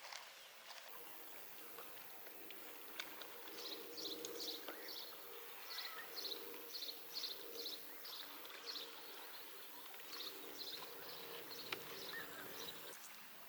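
Faint outdoor ambience: a steady low hum, with short high chirps repeated about twice a second through most of the middle, from a small animal such as a bird or insect.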